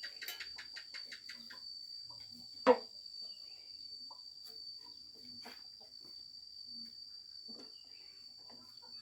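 Steady, high-pitched trill of crickets, with a quick run of light ticks in the first second and a half and scattered faint knocks. One sharp knock, the loudest sound, comes about two and a half seconds in.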